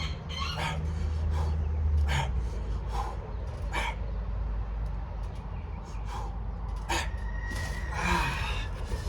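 A man breathing hard in short, sharp exhales, roughly one a second, over a steady low background rumble.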